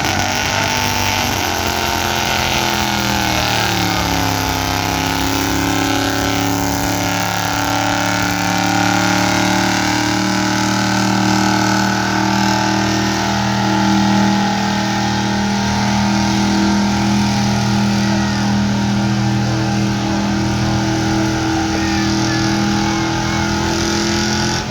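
1978 Ford F-250 pickup's gasoline engine held at high revs while pulling a weight sled. The pitch sags over the first few seconds as the load builds, then holds steady, and falls away sharply at the very end as the throttle comes off.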